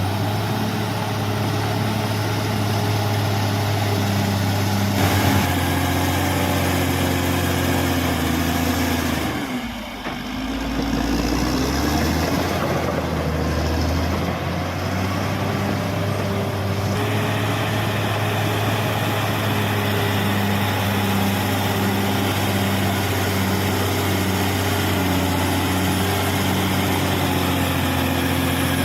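Caterpillar D6R XL bulldozer's diesel engine running steadily, sagging briefly about ten seconds in and then climbing back up in pitch.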